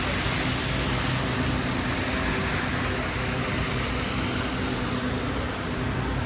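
Steady city street traffic: vehicle engines running with a low steady hum under a constant wash of road noise.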